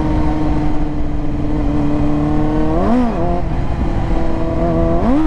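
Motorcycle engine running at a steady speed, then revved quickly up and back down twice, about two seconds apart, in attempts to lift the front wheel. The rider takes the revving for a slipping clutch.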